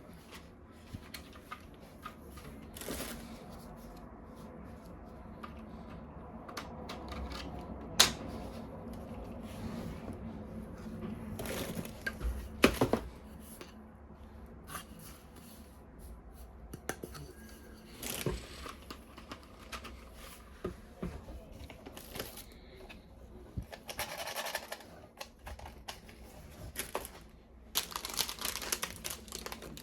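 Plastic toy packaging being handled, crinkling and tearing as toy guns are unpacked, with a few sharp plastic clicks and knocks, the loudest about 8 s and 12 s in.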